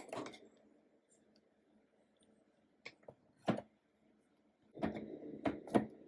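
Scattered clicks and knocks of parts and tools being handled on a workbench: a few single sharp taps about three seconds in, then a quick cluster of knocks near the end.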